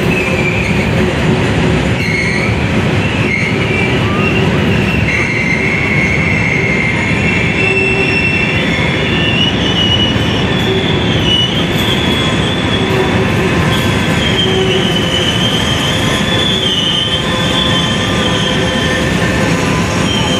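Freight train of loaded covered hopper cars rolling steadily past, a continuous rumble of wheels on rail with high, wavering wheel squeal from the flanges grinding on the tight curve.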